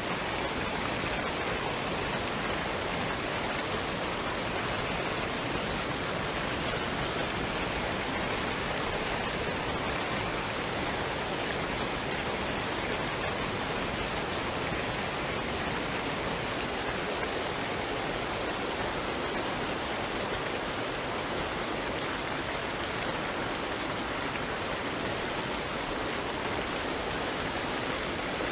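Waterfall and stream water running in a steady, even rush with no change in level.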